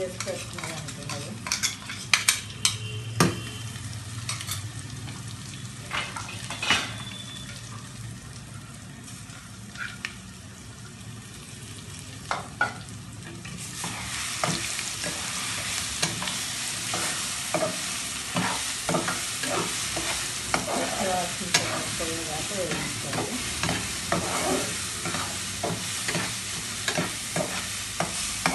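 Chopped cluster beans and ground spice mix frying and sizzling in a metal pan, with a spatula stirring and scraping against the pan in sharp clicks and knocks. The sizzle grows louder about halfway through.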